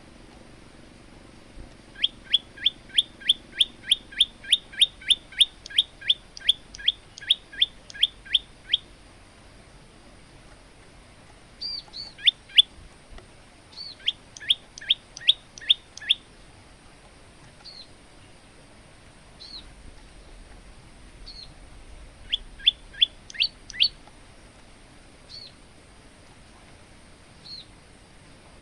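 Male olive-backed tailorbird singing: a long run of sharp, quick down-sweeping notes, about three a second, then after a pause shorter runs of the same notes with single high chips between them.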